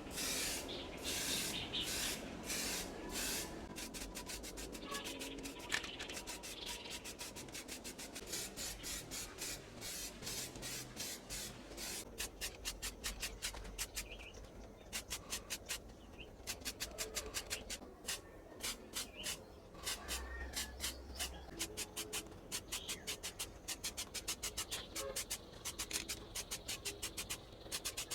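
Hand sanding: rhythmic back-and-forth rubbing strokes, about two a second at first and faster, around four to five a second, from about twelve seconds in.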